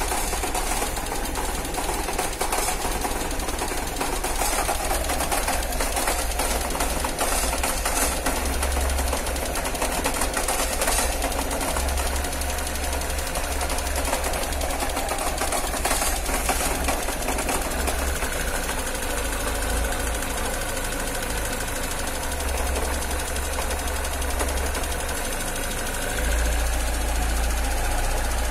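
Peugeot 106 semi-injection petrol four-cylinder engine idling with a fast clicking clatter and a shake. The owner says this clicking comes when the engine is cold in the morning and fades little by little as it warms. It gets slightly louder near the end.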